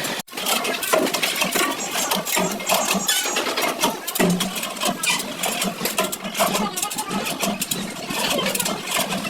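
Vehicle engine running with an uneven mechanical clatter, a steady low hum joining about four seconds in.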